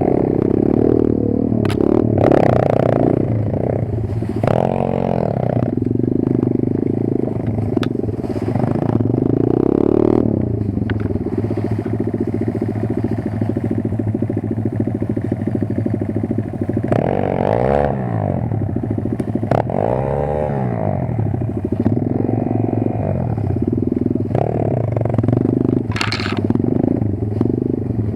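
Kayo 140 pit bike's single-cylinder four-stroke engine running, revving up and falling back several times, with a few sharp knocks.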